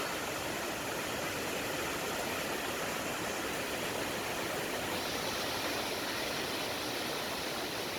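Waterfall pouring, a steady rushing of falling water that gets slightly brighter and hissier about five seconds in.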